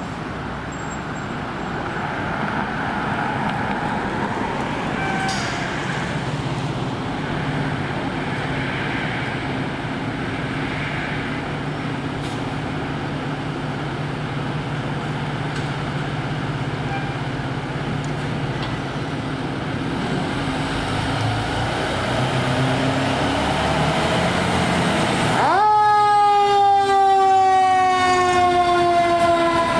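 Steady traffic and heavy vehicle engine noise. About 25 seconds in, a loud single-note air horn sounds and holds, its pitch falling slowly as it passes.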